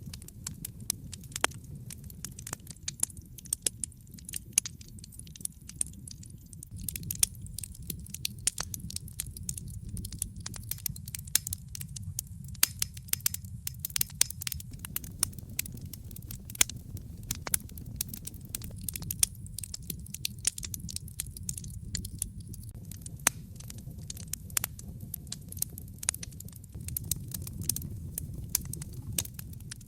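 Wood fire crackling, with frequent irregular sharp pops over a steady low rumble of the burning logs.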